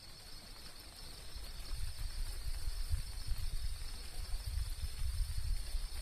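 Steady high insect trilling, with a low rumble on the microphone that swells through the middle and eases off near the end.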